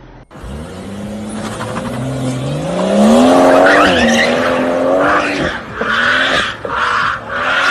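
Car engine revving up hard, its pitch rising over a couple of seconds, then tyres squealing in several short bursts.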